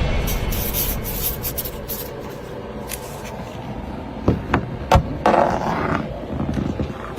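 Pen scratching on paper as a note is written, followed by three sharp clicks and a short rustle about five seconds in.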